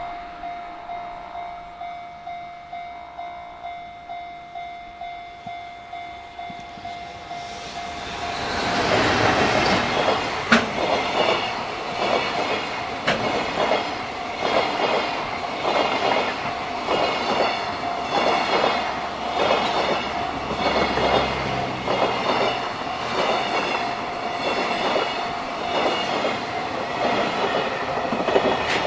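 A level-crossing warning bell ringing in an even pulse. About eight seconds in, a JR Freight container train hauled by an EF210 electric locomotive passes close by with a loud rush of wind. The wagons' wheels then clatter in a steady clickety-clack over the rail joints, with the crossing bell still ringing beneath.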